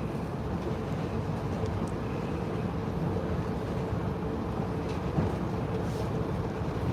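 Steady rumble inside a passenger train car, with a faint steady hum over it.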